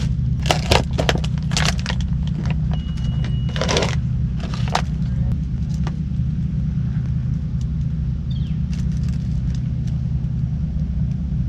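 A steady low engine rumble, with several sharp clicks and rustles of handling in the first five seconds and a short high beep a little before four seconds in.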